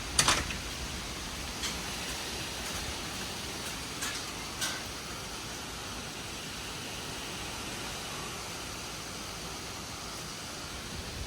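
Steady gusty storm wind rushing through the trees ahead of a thunderstorm, with a few short sharp ticks, the loudest just after the start.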